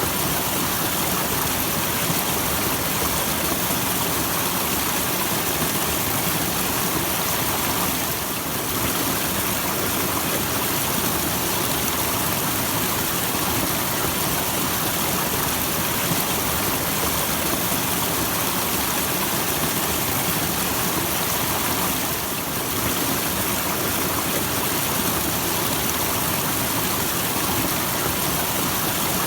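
Small waterfall's water falling and splashing steadily, an even, unbroken rushing noise.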